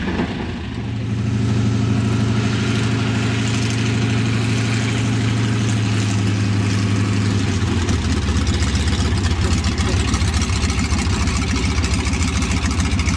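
An aircraft engine running steadily. Its note drops to a lower, steady pitch about halfway through.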